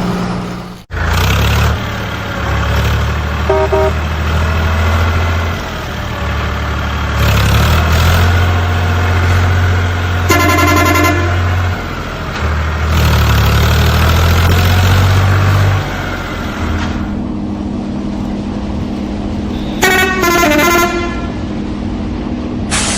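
Vehicle engines running steadily with several horn honks: a short one, a longer one, and near the end one that falls in pitch.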